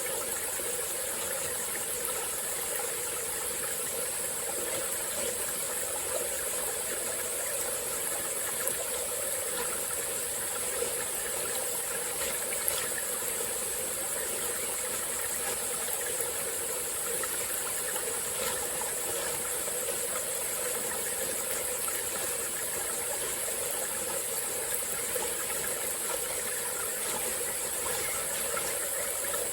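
Small tropical-forest stream flowing and trickling steadily, under a constant high-pitched drone of insects.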